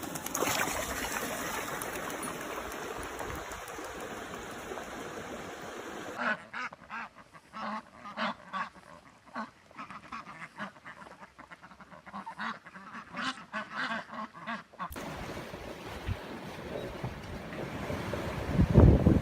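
A steady noise, then, from about six seconds in, a series of short bird calls, one or two a second, for about nine seconds. The calls stop abruptly and a steady noise returns.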